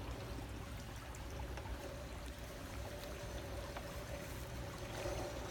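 Steady rushing background noise with a faint hum, and a few light clicks from a G-scale USA Trains Big Boy tender's wheels as it is pushed by hand around a tight 10-foot diameter curve of track.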